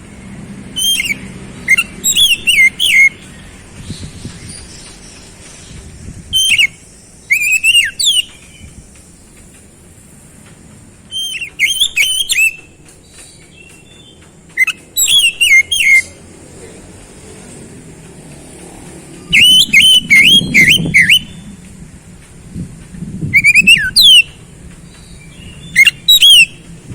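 Oriental magpie-robin (kacer) singing: short loud phrases of quick, sharply sliding whistled notes, repeated about nine times with pauses of a second or more between them.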